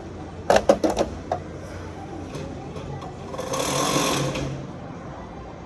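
Workshop tool noise: a quick rattle of about five sharp metallic knocks and a single knock just after, then a hiss that swells and fades over about a second.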